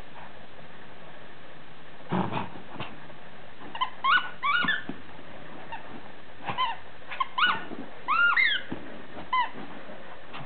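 Rubber squeaker in a dog toy squeaking in short, irregular squeezes as a beagle bites it, each squeak rising then falling in pitch, about a dozen in quick succession from about four seconds in. A short rustling thump comes about two seconds in.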